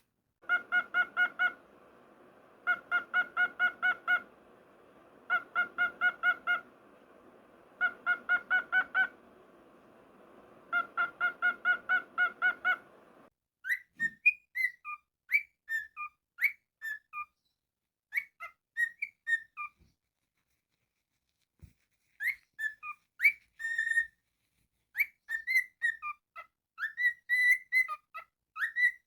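Five spaced runs of fast, steady-pitched honking beeps over a hiss, cutting off abruptly about 13 seconds in. They are followed by a cockatiel chirping and whistling in quick short notes that slide up and down.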